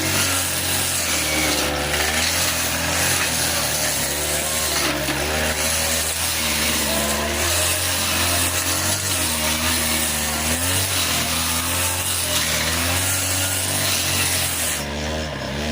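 Two-stroke 40cc brush cutter running and cutting thick grass, its engine pitch wavering up and down as the load on the blade changes.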